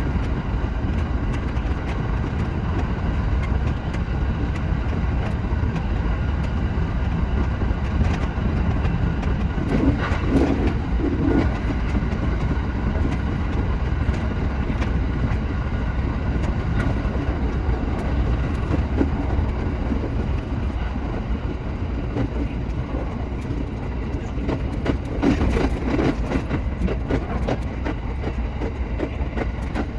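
Shinano Railway SR1-series electric train running along the line: a steady rumble of wheels on the rails with frequent small clicks from the track.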